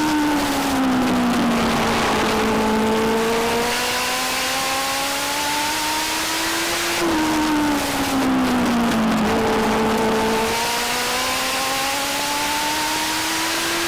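Legend car's Yamaha motorcycle four-cylinder engine at racing speed around a short oval. The pitch drops as the throttle is lifted at the start and again about seven seconds in, then climbs steadily back up under power.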